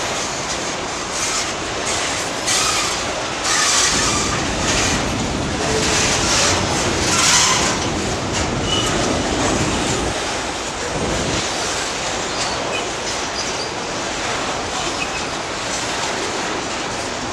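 Freight train's boxcars rolling past close by: a continuous rumble and clatter of steel wheels on the rails, with louder high-pitched wheel squeal twice, about four and seven seconds in.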